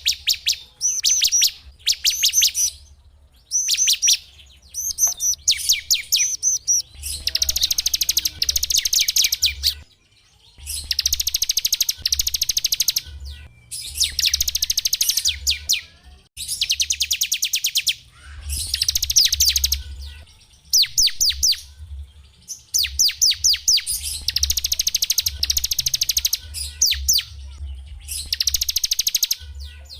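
Small songbird singing fast, trilled phrases of sharp high notes in repeated bursts a second or two long, with short pauses between them.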